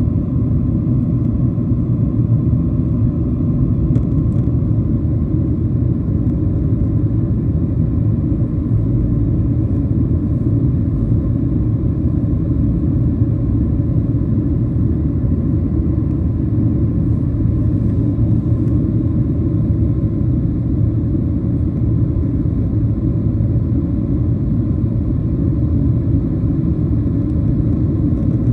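Steady low rumble inside the cabin of a Boeing 737-700, the noise of its CFM56-7B engines and the passing air, unchanging throughout.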